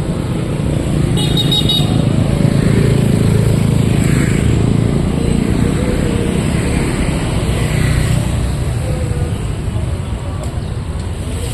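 Street traffic, mostly motorcycles and cars going by, a steady low rumble throughout. A short, high-pitched horn toot sounds about a second in.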